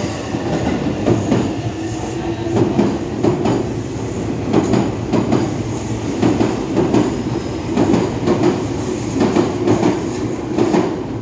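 Passenger train running past on the adjacent track, its wheels clacking over rail joints in a repeated, uneven rhythm over a steady rumble.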